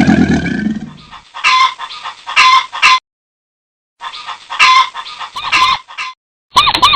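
Chicken clucking in two runs of short, sharp clucks with a pause between them. A deeper animal sound fades out in the first second, and a brief, different high-pitched call starts near the end.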